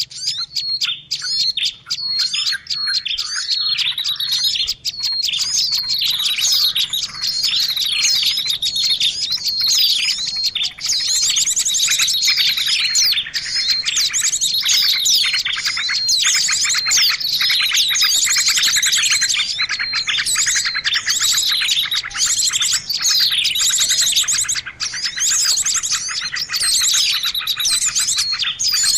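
A dense chorus of small songbirds chirping and trilling without pause, many quick calls overlapping: a recorded bird-lure call (suara pikat) used to draw wild birds in.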